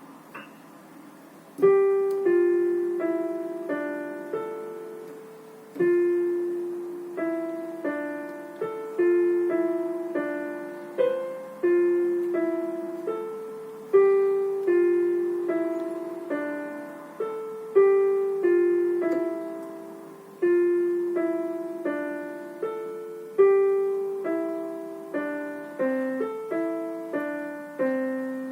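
Solo piano playing a simple piece in the middle register. The first note comes about a second and a half in, after a few faint clicks. From there the phrases repeat, each opening with a louder accented note that dies away.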